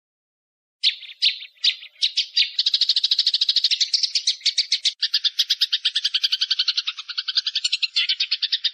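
Bird call played as a masteran training recording: a few sharp, spaced notes about a second in that speed up into a fast, even rattle of about ten notes a second, shifting slightly lower about five seconds in.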